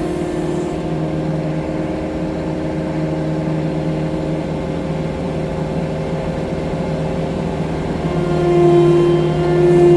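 Diesel engine of a 6-ton skid steer track loader running steadily under throttle, growing louder for a couple of seconds near the end.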